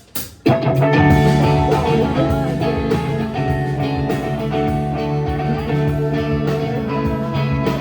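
Live band music with guitar, kicking in about half a second in after two sharp hits and then playing on steadily.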